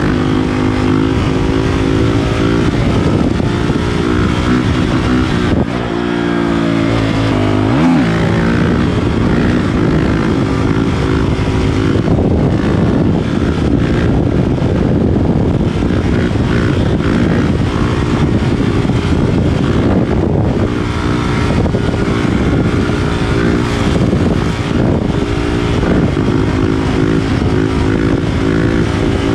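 Honda CRF450RL's single-cylinder four-stroke engine running loud through an FMF Power Core 4 exhaust with MegaBomb header while riding, the pitch rising and falling with the throttle. It drops off briefly about six seconds in, then revs up in a rising sweep near eight seconds.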